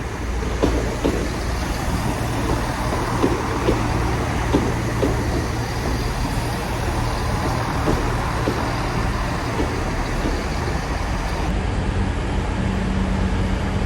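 Diesel passenger trains at a station platform: a steady low engine drone with a scatter of clicks and knocks from the wheels on the track. A new steady hum comes in a couple of seconds before the end.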